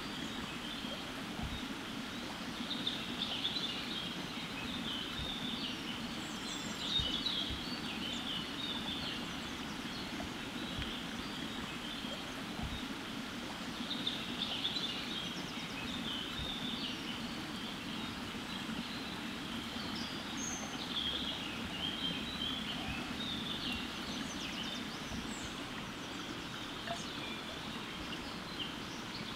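Small birds chirping and twittering on and off over a steady low background rumble, with a few soft low thumps.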